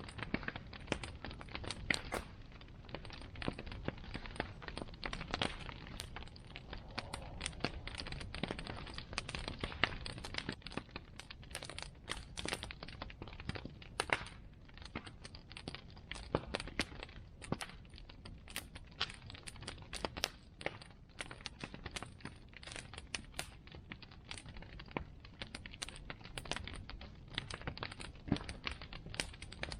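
Wood bonfire burning steadily: a low rumble of flame with dense, irregular crackles and pops of burning wood.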